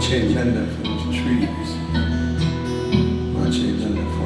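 Live acoustic guitar music: an instrumental passage of strummed and plucked chords over steady low bass notes, without singing.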